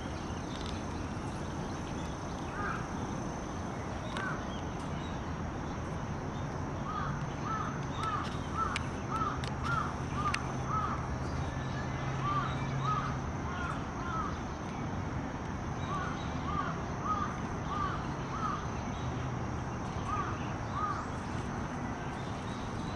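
A bird calling in runs of short, repeated notes, about two a second, on and off through the stretch, over a steady low background hum.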